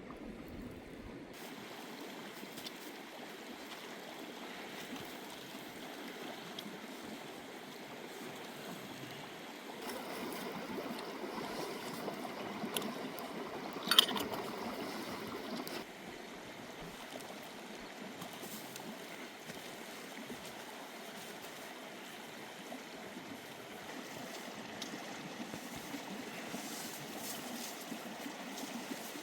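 Steady wash of running or falling water, louder for a few seconds in the middle, with one sharp knock about halfway through.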